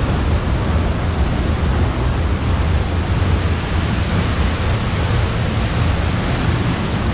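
Large waterfall, Steindalsfossen, falling water making a loud, steady rushing noise with a deep rumble underneath.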